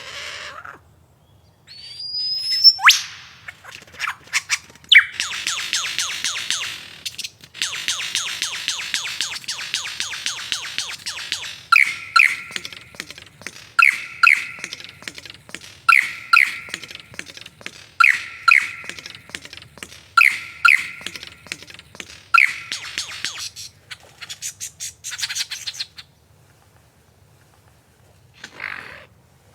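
A bird calling: a rising whistle, then a long run of rapid chattering clicks, then pairs of short falling notes repeated about every two seconds.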